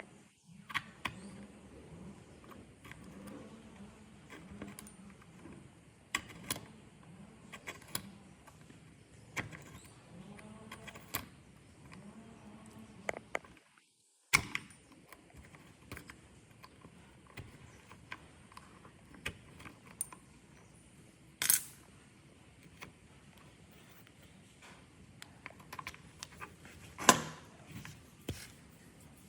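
Scattered metallic clicks, clinks and knocks of small metal parts and hand tools being handled, with a faint low wavering hum beneath. The sound drops out completely twice, briefly about half a second in and for about half a second around fourteen seconds.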